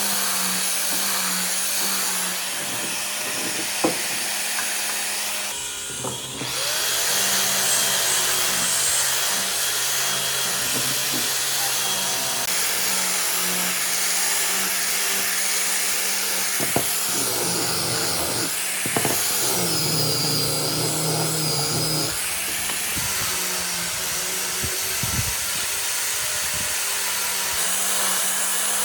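An electric power tool running steadily on wood, with a short break about six seconds in.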